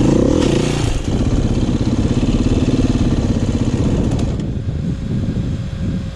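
Dirt bike engine revving up and down while the rider works clutch and throttle on a hill climb, then running more steadily. It drops away and gets quieter about four and a half seconds in.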